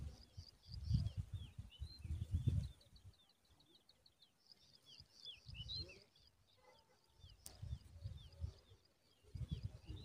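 Small birds chirping over and over in short, high, downward-slurred notes, with a quick ticking trill about three seconds in. Under them come bursts of low rumble, the loudest sound, with one sharp click near the end.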